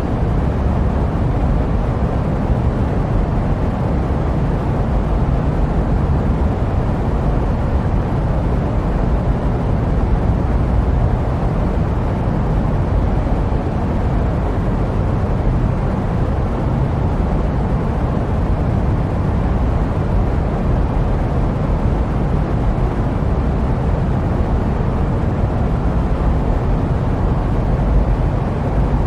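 Steady jet aircraft noise used as sleep white noise: an even, unbroken low rumble with a fainter hiss above, without changes or separate events.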